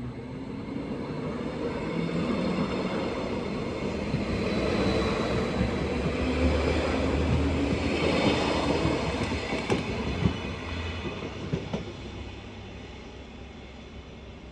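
A train passing by, growing louder to a peak and then fading away, with a few sharp clicks of wheels over rail joints as it goes.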